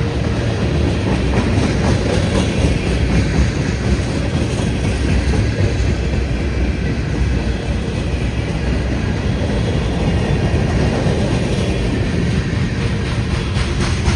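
Cars of a long CSX freight train rolling past: a steady rumble of steel wheels on rail with a running clickety-clack of wheels over the rail joints.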